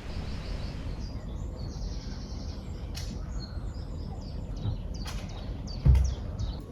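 Small birds chirping in short high calls over steady low background noise, with one dull thump about six seconds in.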